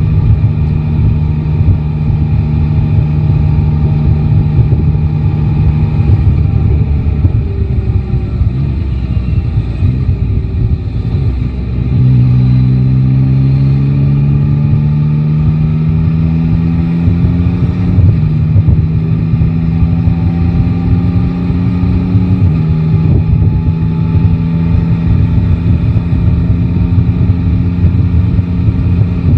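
Motorcycle's three-cylinder engine running in traffic over steady wind and road noise. About twelve seconds in it accelerates with a rising pitch, drops in pitch at gear changes about six and ten seconds later, then holds a steady cruise.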